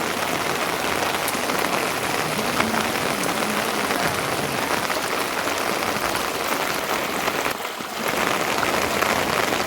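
Steady heavy rain falling on a surface, a dense hiss of many small drop ticks, easing briefly for a moment about eight seconds in.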